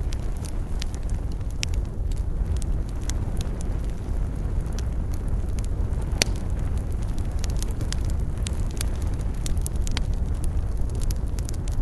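Wood campfire crackling, with irregular sharp snaps and pops, a few louder than the rest, over a steady low rumble.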